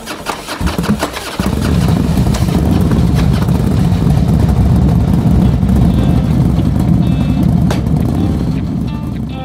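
A motorbike engine starts up about a second in, then runs steadily with a dense low rumble, easing off slightly near the end.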